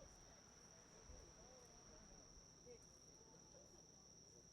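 Faint, steady high-pitched trill of insects singing without a break, over faint distant voices.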